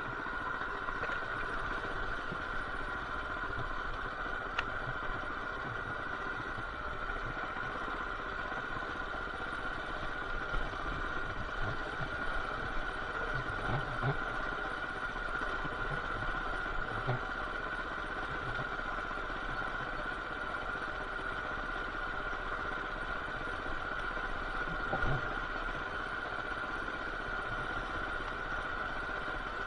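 Coleman BT200X mini bike's small single-cylinder engine running steadily during a ride, with a few light knocks and rattles.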